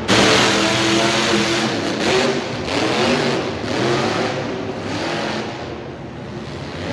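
Monster truck engine revving hard, its pitch rising and falling several times, over a steady roar of noise.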